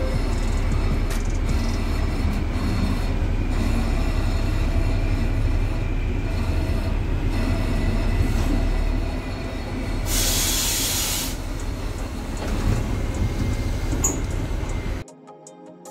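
Train running along the track, a steady low rumble of wheels on rails, with a burst of hiss lasting about a second some ten seconds in. Near the end the train sound cuts off suddenly and a soft chime begins.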